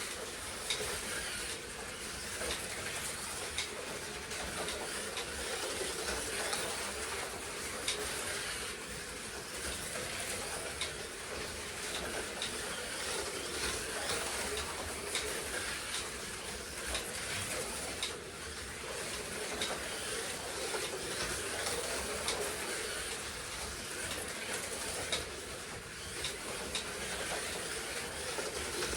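Slot cars lapping a track: a steady buzz of small electric motors and tyres running on the track, with occasional sharp clicks.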